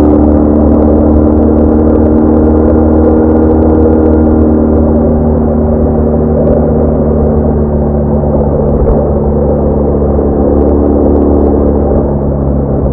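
BMW R1200R's flat-twin boxer engine running steadily as the motorcycle cruises, heard as a loud, even engine drone at a constant speed.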